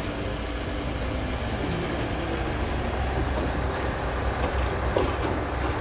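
Heavy machinery running with a steady low rumble and a dense mechanical noise.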